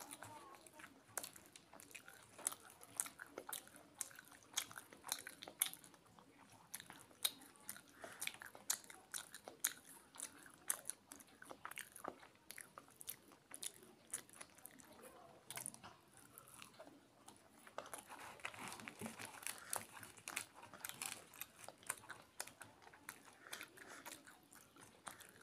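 Close-up eating sounds of a person chewing kochuri, deep-fried puffed bread, with potato and chickpea curry: steady chewing with many sharp little mouth clicks.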